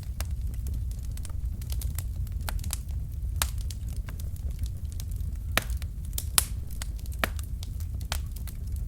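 Wood fire burning in a fireplace: logs crackling and popping in sharp, irregular snaps over a steady low rumble of the flames, with a few louder pops about five and a half and six and a half seconds in.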